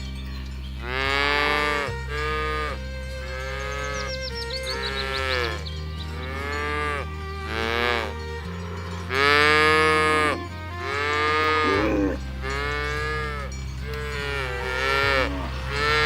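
Cattle mooing again and again, about ten calls of a second or so each, some overlapping. Behind them is background music with a low held bass note that changes pitch every few seconds.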